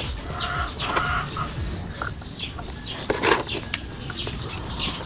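Chickens clucking, with short high chirps of small birds and a few light clicks.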